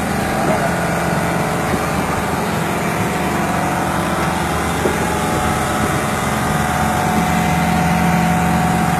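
A tuna fishing boat's engine running steadily with an even hum, over a constant rush of noise.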